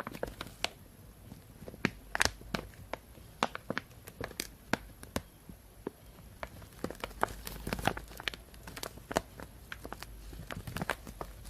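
Thin plastic shopping bag crinkling and rustling, close to the microphone, in irregular sharp crackles.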